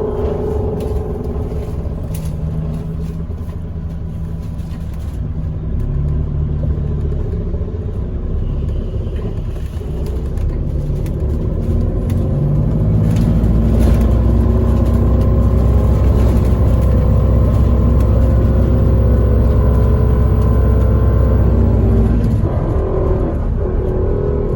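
Bus engine and road noise heard from inside the bus. The low rumble gets louder about halfway through as the bus pulls harder, with a faint whine that rises slowly, then eases off near the end.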